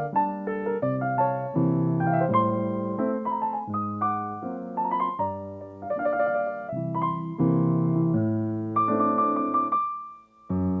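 Solo piano playing flowing chords with short rising runs; a held chord dies away near the end before a new chord is struck.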